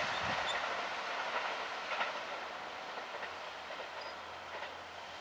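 Kintetsu electric train running away into the distance, its rail noise fading steadily, with a few faint wheel clicks over rail joints.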